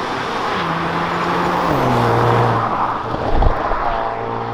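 Hyundai Veloster N's turbocharged 2.0-litre four-cylinder pulling hard while the dual-clutch gearbox shifts up, its pitch stepping down twice as it grows louder. A couple of sharp pops follow a little past the middle, then it settles to a steadier drone.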